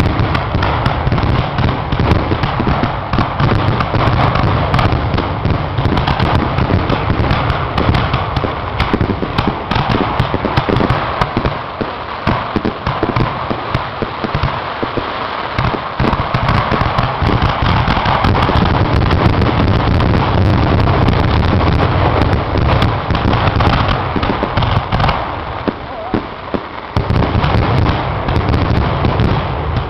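Fireworks finale: a dense, continuous barrage of aerial shell bursts and crackle, the booms overlapping almost without a gap, thinning briefly about halfway through and again near the end.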